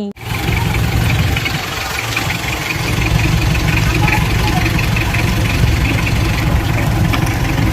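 A vehicle's engine running steadily with a low rumble and road noise, with people talking faintly.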